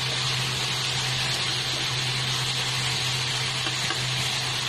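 Diced tomatoes, onions and garlic sizzling steadily in a hot wok on a high flame, stirred with a spatula, over a steady low hum.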